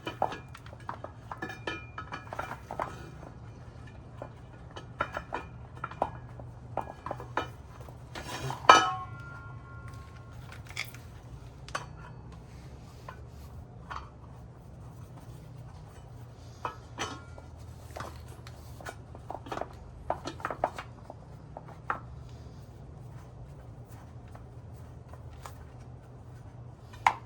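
Metal tools and small metal parts clinking and clanking irregularly during hand work on a motorcycle's rear wheel, with one louder ringing clank about nine seconds in, over a steady low hum.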